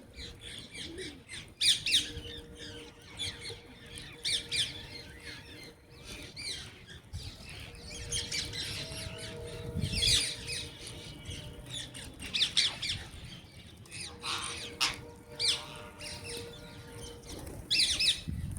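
Several small birds chirping in short, scattered calls, with louder flurries of chirps every few seconds.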